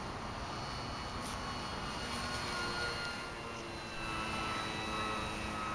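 Electric motor and propeller of a foam RC airplane whining faintly in flight, several steady tones shifting slightly in pitch as the throttle or distance changes, over low wind rumble on the microphone.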